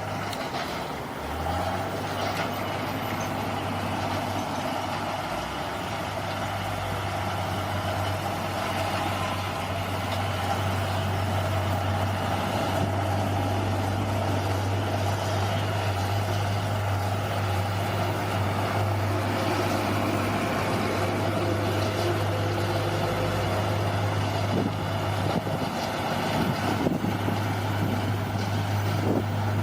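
Bulldozer's diesel engine running steadily, getting a little louder partway through, with a few sharp knocks near the end.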